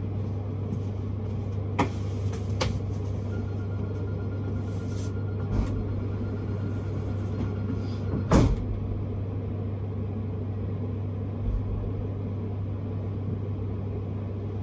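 Inside a Vienna S-Bahn train carriage while the train is running: a steady low hum and rumble, with a few short knocks and one louder thump about eight seconds in.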